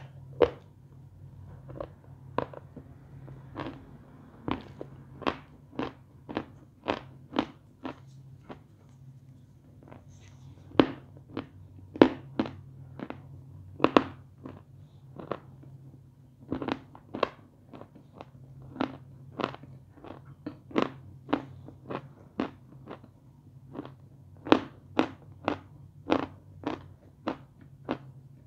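Chalk chips (pieces of edible chalk) being chewed with the mouth closed: a steady run of sharp, crisp crunches, about two a second.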